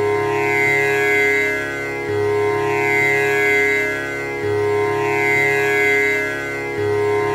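Tanpura drone: its strings are plucked one after another in a cycle that repeats about every two and a half seconds. The notes ring on into one another as a continuous, steady drone.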